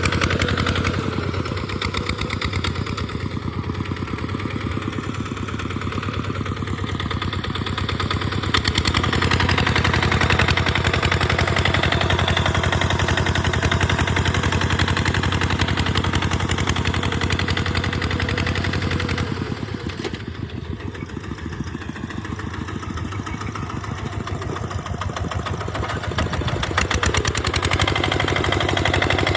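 Tractor engine running steadily while plowing, with a fast, even firing pulse. It grows louder about nine seconds in, drops back about twenty seconds in, and picks up again near the end as the load changes.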